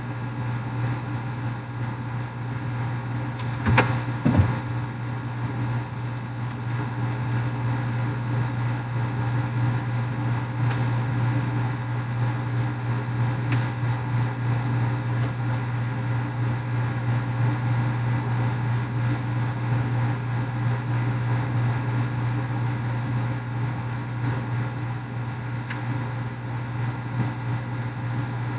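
A steady low mechanical hum runs without change. Two sharp knocks come about four seconds in, and a couple of faint clicks follow later.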